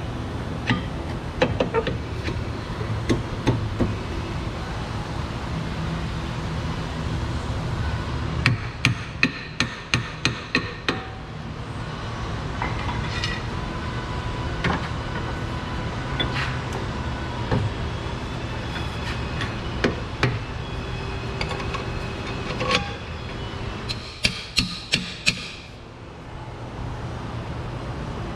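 Hammer blows on metal suspension parts, coming in quick runs of sharp knocks, over a steady low hum.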